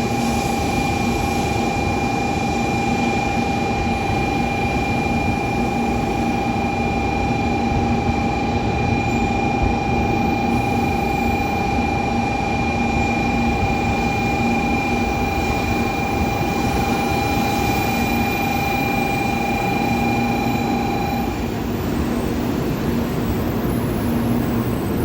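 A train at a station platform runs with a steady mechanical rumble and hum, carrying constant high whining tones that cut off about 21 seconds in.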